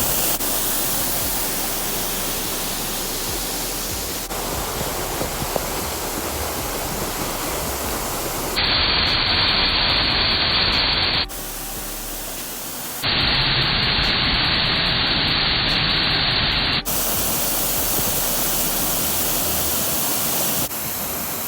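Waterfall: a steady rush of heavily falling water, swollen by monsoon flow. It comes in several edited segments that switch abruptly in loudness and tone.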